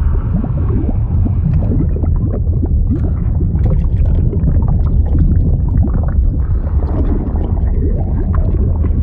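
Fluid sound effect: continuous deep bubbling and gurgling liquid over a steady low rumble, with many short bubble pops throughout.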